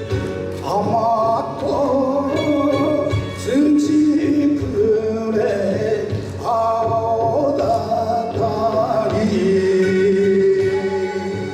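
A man singing a song with instrumental accompaniment, holding long sung notes over the music.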